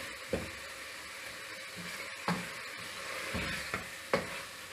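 Chicken mince sizzling steadily as it is stir-fried in ghee in a non-stick pot, with a wooden spoon scraping and knocking against the pot a few times. This is the bhuna stage, frying the mince until the ghee separates.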